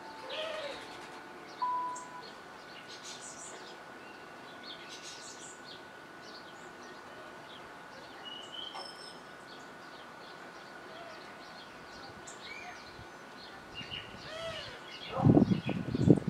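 Background birds chirping and calling at intervals, with a faint steady high tone underneath. Near the end comes a louder, lower burst of sound.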